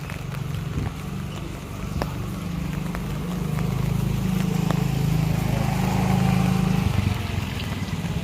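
Motorcycle engine running close by, growing louder through the middle and easing off near the end, with scattered light ticks over it.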